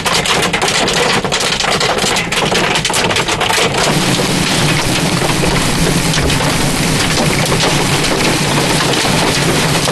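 Hail and heavy rain pelting a car's body and windshield, heard from inside: dense hard impacts for the first few seconds, thinning into a steadier downpour.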